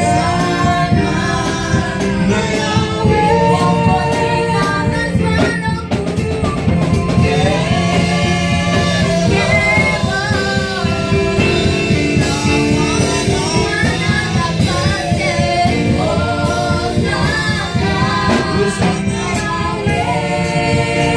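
Church choir singing a French gospel worship song with a live band, over a steady beat.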